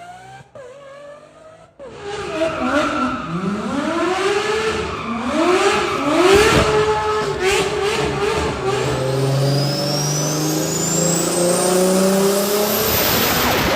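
A sports car engine accelerating hard through the gears. Its note climbs and drops back about five times in quick succession, then settles into a steadier drone with a thin whine rising in pitch toward the end.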